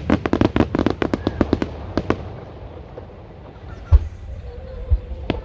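Aerial fireworks from a wide starmine barrage: a fast run of sharp cracks, several a second, thinning out after about two seconds. A single deep boom follows about four seconds in, then a few more scattered cracks near the end.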